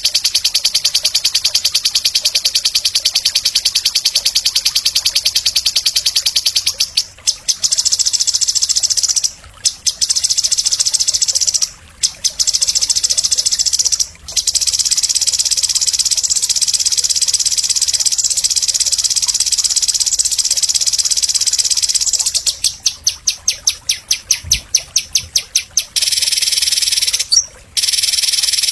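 A songbird singing a very fast, high, continuous trill or chatter in long runs, broken by brief pauses about 7, 9.5, 12, 14 and 27 seconds in. It is a masteran recording, song used to train caged songbirds to sing.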